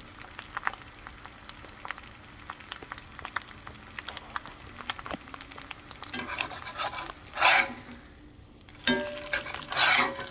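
An egg frying in oil in a freshly seasoned Griswold cast iron skillet, with a steady fine sizzle and crackle. Two louder rasping bursts come through near the end.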